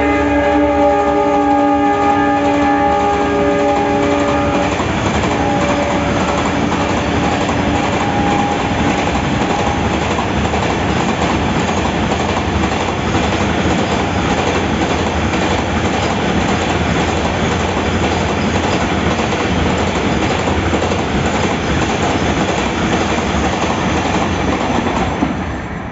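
Diesel locomotive horn sounding a chord that fades out over the first few seconds as the locomotive pulls away, over the steady rumble and clatter of a long container freight train's wagons running past on the rails.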